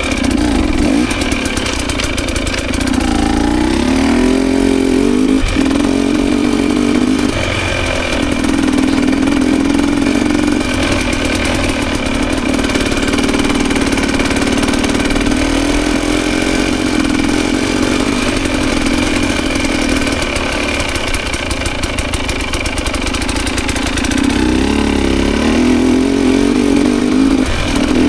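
Dirt bike engine being ridden, revving up and easing off again and again as the throttle opens and closes, with rising pitch sweeps around a few seconds in and again near the end.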